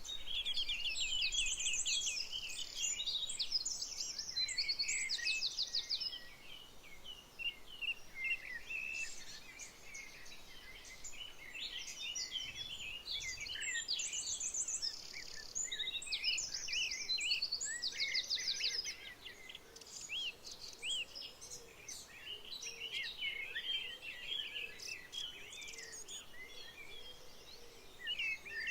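Many songbirds chirping and singing at once in a dense chorus, full of short high chirps and whistles. A fast, rattling trill recurs several times, about a second in, around three seconds in, and twice more in the middle.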